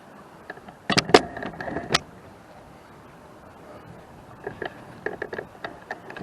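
Rocks knocking together as they are stacked by hand: a cluster of sharp clacks about a second in, then lighter scattered clicks near the end.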